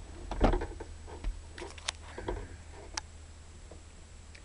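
Scattered light clicks and knocks of parts and tools being handled, the loudest about half a second in, over a steady low hum.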